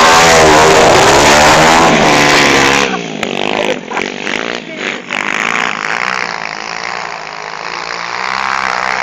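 Pit bike engines revving hard close by, their pitch wavering up and down; about three seconds in the sound drops sharply and carries on fainter as the bikes move away.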